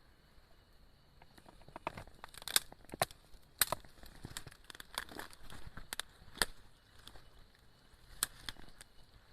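A run of sharp, irregular cracks, snaps and crinkles, like dry material being crumpled or snapped by hand, loudest in a few strong snaps in the middle. A faint steady high-pitched tone runs underneath.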